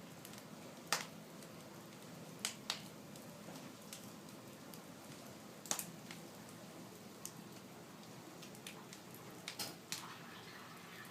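Wood fire in a fireplace crackling, with irregular sharp pops every second or so over a faint steady hiss; the loudest pop comes about a second in.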